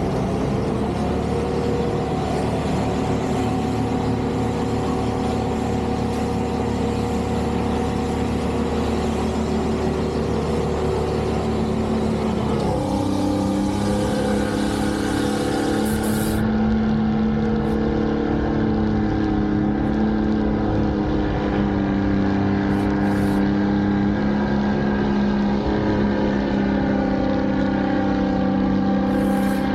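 Heavy snow-removal machinery running steadily under engine power, its engine note changing abruptly about halfway through.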